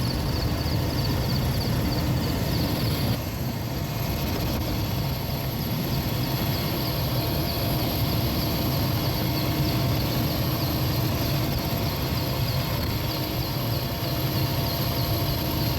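Steady engine noise of firefighting aircraft flying over, with a low hum under a noisy rush. The sound shifts abruptly about three seconds in.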